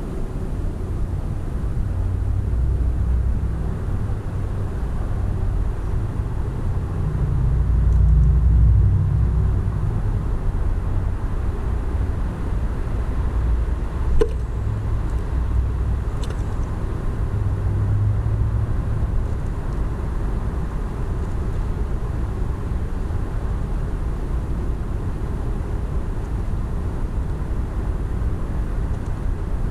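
Steady low outdoor rumble, swelling about eight seconds in, with a couple of faint short high sounds about halfway through.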